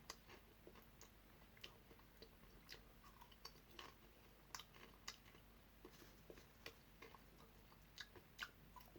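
Faint chewing of chocolate and caramel coated popcorn: soft, irregular crunches and clicks, one or two a second.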